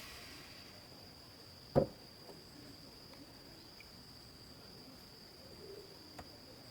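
Steady high-pitched insect drone, like crickets, with a single sharp knock about two seconds in and a faint click near the end. The noise of a vehicle fades away at the very start.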